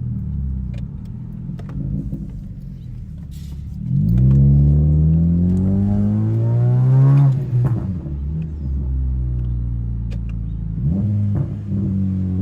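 2012 Honda Civic's 1.8 L four-cylinder engine running through an aftermarket exhaust. It runs at a steady low note, then about four seconds in it accelerates with the pitch climbing for about three seconds. The pitch then drops sharply as the throttle is released, with small pops and crackles from the exhaust. The engine picks up again briefly near the end.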